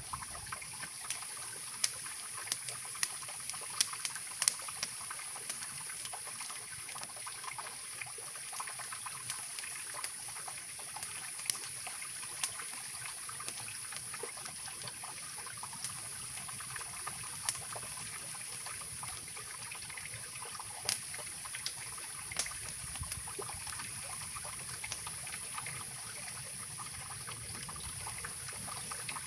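Mountain river rushing steadily, with irregular sharp crackles and pops from a wood campfire.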